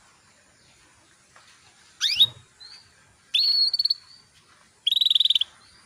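Female canary calling: a quick rising chirp about two seconds in, then two short, high, fast-pulsed trills.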